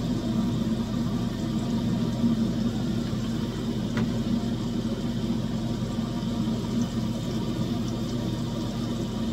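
Breaded green tomato slices frying in a skillet of oil over a steady low whir, with a single light metallic click about four seconds in as the tongs set a slice down on the cookie sheet's wire rack.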